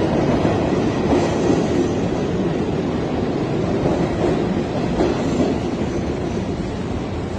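New York City subway train moving along the track: a steady rumble of wheels on rail that gradually grows quieter.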